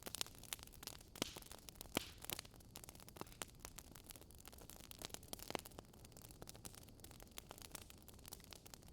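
Wood fire crackling: a soft steady hiss with irregular sharp pops and snaps, a few louder ones among many small ones.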